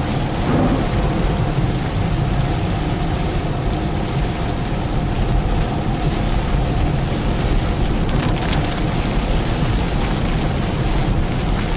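Heavy rain falling on a moving car, heard from inside the cabin, over a steady low rumble of road and tyre noise.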